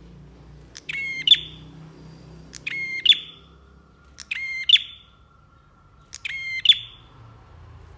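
Prenjak (prinia) song: four short, near-identical phrases of rapid high notes, one about every two seconds, each ending in a sharp, loud note.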